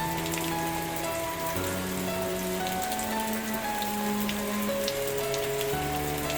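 Steady rain falling, with scattered sharp drop ticks. Underneath is soft background music of long held notes that change every second or so.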